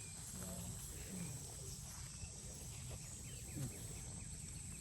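Steady, high-pitched chorus of insects, such as crickets, over low outdoor background noise.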